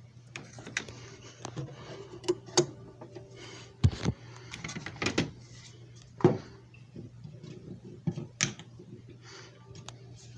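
Scattered clicks and knocks of objects being handled, with a few louder thumps, over a steady low hum.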